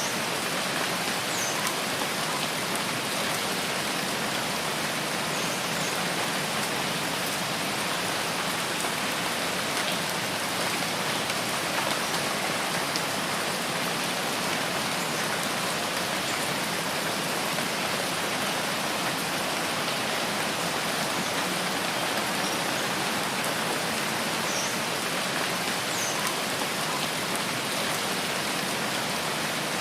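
Steady rain falling, an even, unbroken hiss of many drops, with a few faint high-pitched ticks now and then.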